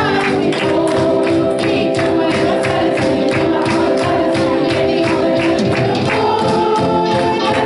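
Live gospel worship music with group singing and a tambourine shaken on a steady beat.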